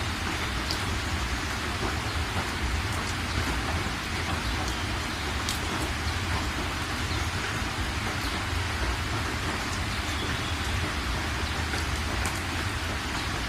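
Steady heavy rain falling, an even hiss with a low rumble underneath and scattered sharp drip ticks.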